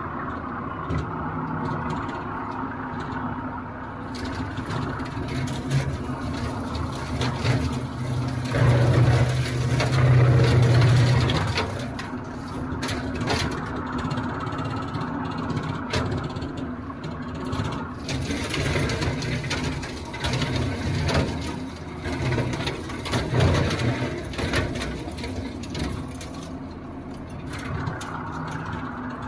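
TYM compact tractor's diesel engine running steadily, with a louder surge under load for a few seconds about nine seconds in.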